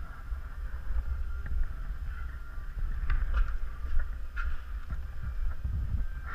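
Low, uneven rumble of wind and handling noise on the camera microphone, with scattered faint clicks and knocks.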